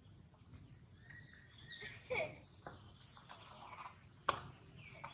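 A wild bird singing a fast, even trill of high notes, about six a second, lasting roughly two and a half seconds from about a second in. A single sharp click follows near the end.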